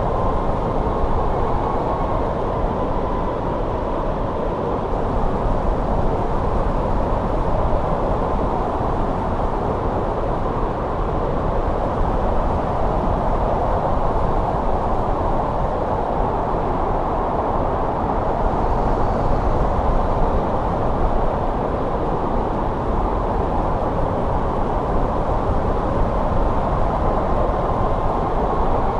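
Steady winter wind blowing, a low, rumbling rush that swells and eases gently.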